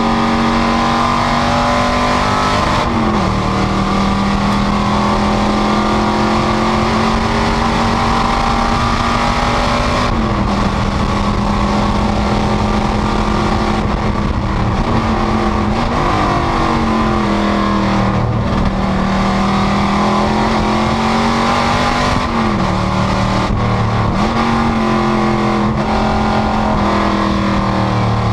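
Panoz GTS race car's engine running hard at high revs, its pitch climbing through each gear and dropping sharply at several shifts. Steady wind and road noise runs underneath.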